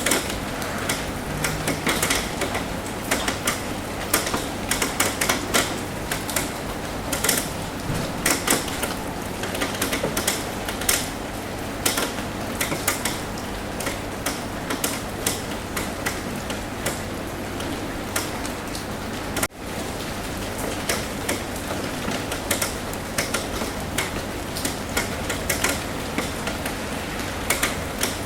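Rain falling on a roof: a steady hiss of rain with many irregular sharp taps of drops striking the roof. The sound dips briefly about two-thirds of the way through.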